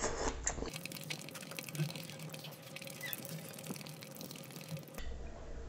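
Close-miked wet chewing and mouth clicks from eating creamy red-sauce pasta, with a run of small, irregular sticky clicks.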